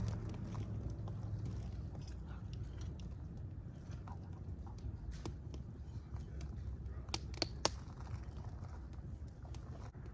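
Wood fire burning, with a low steady rumble under scattered soft crackles and a few sharper pops about seven seconds in.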